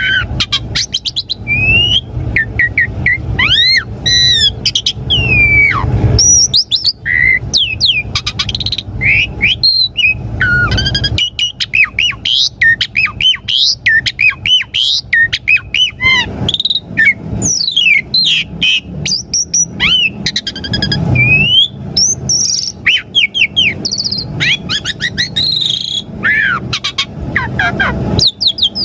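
Asian pied starling (jalak suren) singing a long, varied song: whistles that slide up and down, squeaky notes and rapid chattering clicks, with hardly a pause. A low hum runs underneath, stronger in the first ten seconds or so.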